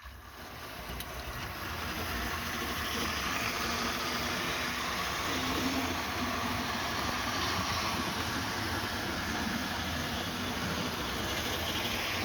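Hornby 00 gauge model train running on the track, its small electric motor and wheels on the rails making a steady rumbling hum. It builds up over the first couple of seconds as the locomotive is started again and gathers speed, then runs on evenly.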